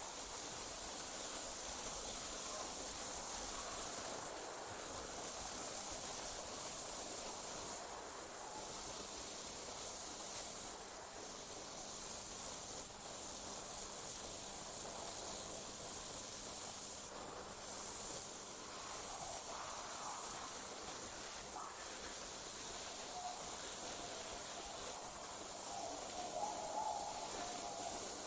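Night insects trilling in a continuous high-pitched chorus that drops out for a moment every few seconds.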